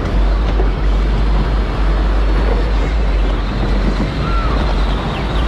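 Power Wheels ride-on toy car driving, heard from on board: a loud, steady rumble of its motor, drivetrain and wheels.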